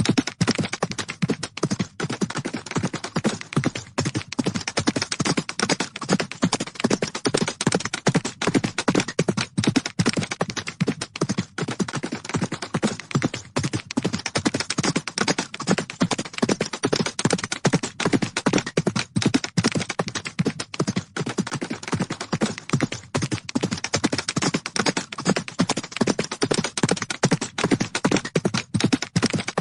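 Horse hooves galloping: a fast, unbroken run of hoofbeats on the ground.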